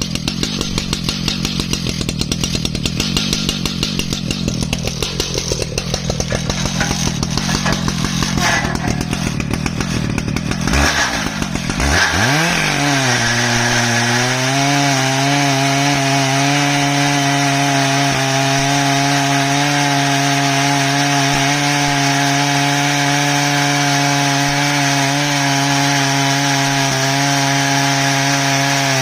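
Stihl MS 881 two-stroke chainsaw on an Alaskan chainsaw mill, running in ash. For the first ten seconds or so its sound is rough and uneven. About twelve seconds in the pitch dips and climbs, then holds a steady, even high drone.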